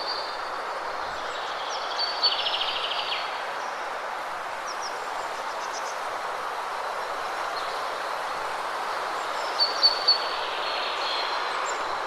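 Steady rushing of a waterfall, with songbirds chirping over it: a rapid high trill about two seconds in and three short sharp chirps near the end.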